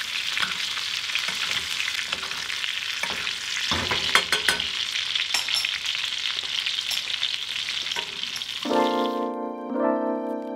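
Steak sizzling in foaming butter in a cast-iron skillet while being basted with a spoon, with a few sharp clicks of the spoon against the pan about four seconds in. Near the end the sizzle stops and a gentle piano tune comes in.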